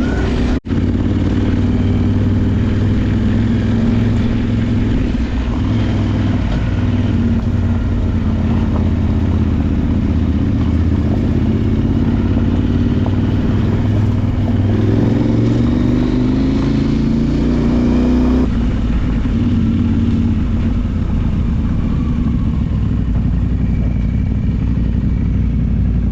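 Parallel-twin adventure motorcycle engine running under way off-road. Its pitch climbs steadily for a few seconds past the middle, then drops abruptly about 18 seconds in. There is a split-second break in the sound just after the start.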